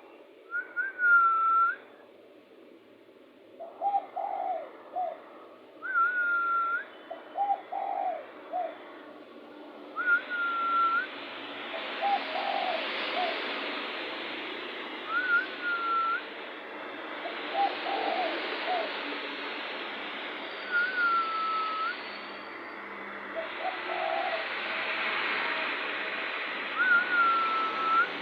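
Spotted dove (tekukur) cooing repeatedly, a short phrase of several coos every few seconds, alternating with a clear higher whistled note. A steady hiss comes up behind from about ten seconds in.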